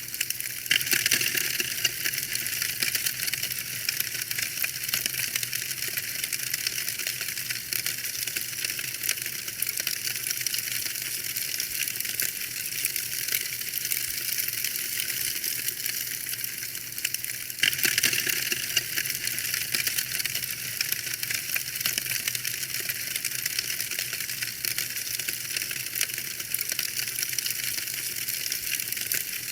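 Wood fire in a fireplace crackling: a dense, steady stream of small pops and snaps over a soft hiss, with louder flurries of snaps just after the start and again about 18 seconds in.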